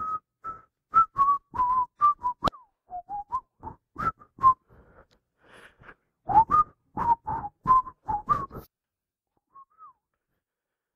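A person whistling a tune in short, separate notes, which stops about nine seconds in after one last faint note.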